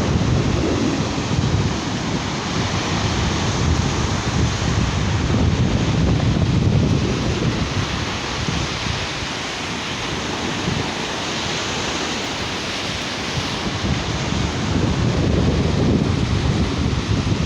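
Sea surf washing on a beach, a continuous hiss that swells and eases, with wind buffeting the microphone in gusty low rumbles that are strongest near the start and near the end.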